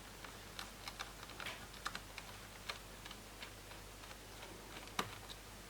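Scattered light clicks and ticks from a small screwdriver and handled parts as a screw is taken out of a laptop's screen assembly, with one sharper click near the end.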